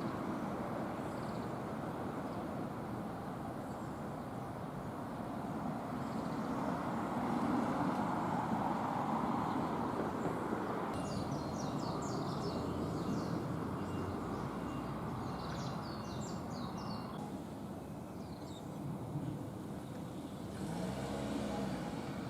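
Steady low rumble of distant traffic, with a run of quick, high-pitched bird chirps for several seconds in the middle.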